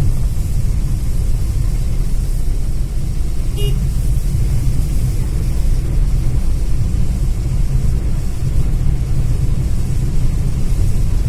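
Steady low rumble of a road vehicle running, with a brief horn toot about three and a half seconds in.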